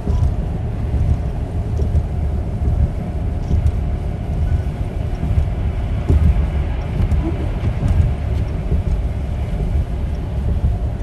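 Steady low rumble of a vehicle running, with a few faint ticks over it.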